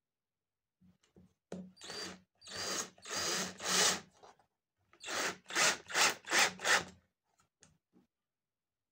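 Hand tool rubbing on wood in back-and-forth strokes: four longer strokes, a short pause, then five quicker ones.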